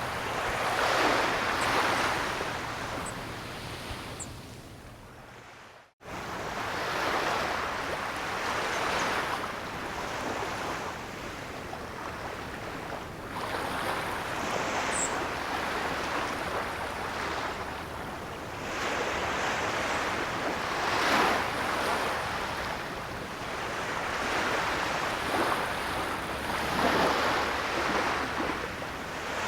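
Ocean surf: waves washing in, each swell of noise rising and falling away every few seconds. About six seconds in the sound fades almost to nothing and cuts back in abruptly, as at an edit splice.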